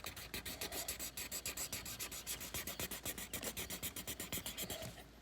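A drawing tool scratching on paper in quick, even back-and-forth strokes, several a second, as the drawing is colored in; the strokes stop near the end.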